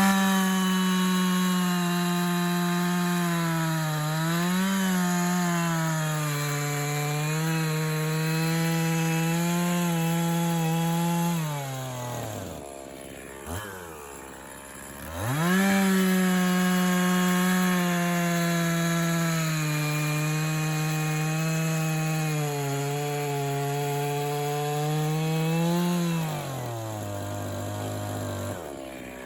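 Echo CS-501P 50cc two-stroke chainsaw at full throttle, cutting through a white pine log, its pitch sagging a little under load. It drops to idle about twelve seconds in, revs up again for a second cut of about ten seconds, then eases back off near the end.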